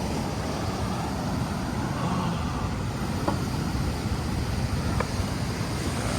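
Steady rush of rough surf breaking, with wind rumbling on the microphone.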